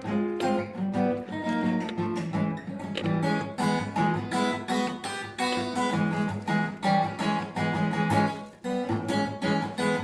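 Acoustic guitar playing: strummed chords mixed with picked notes in a steady rhythm, with a brief break about eight and a half seconds in.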